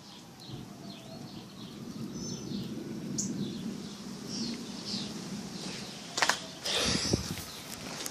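Small birds chirping in short, high, falling notes, repeated many times. About six seconds in, a couple of sharp knocks and a loud rustle, the loudest part.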